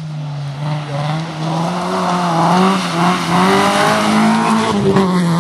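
Rally car engine running hard under load in onboard sound, its pitch climbing slightly through the middle and easing near the end, with tyres squealing through a left-hand corner.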